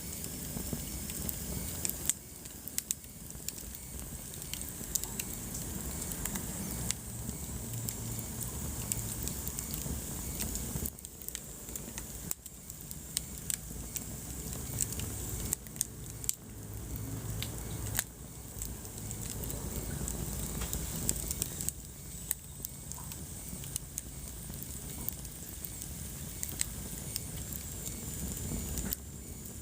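Wood fire burning in a fireplace, crackling with irregular sharp pops and snaps over a steady low rumble of flames.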